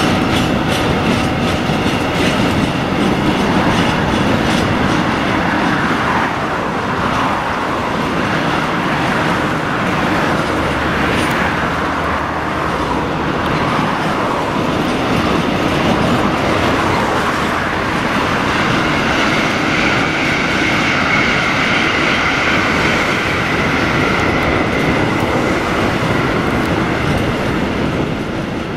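A train rolling past with a steady rumble, its wheels clattering over rail joints. A faint high steady tone joins in during the second half.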